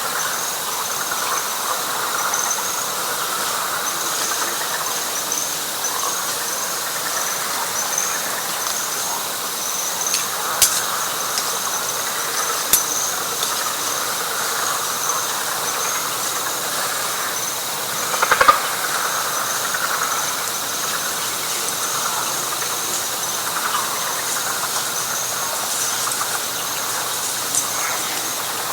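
Night chorus of frogs and insects in a wet pine flatwoods: a steady, high pulsing trill over a dense lower frog chorus. A couple of sharp clicks come about ten and thirteen seconds in, and a brief louder sound about eighteen seconds in.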